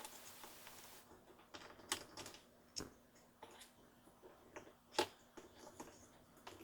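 Faint small plastic clicks and taps from a Magiclip princess doll and her clip-on plastic dress being handled and snapped together, irregular, with the loudest click about five seconds in. A short soft rustle comes in the first second.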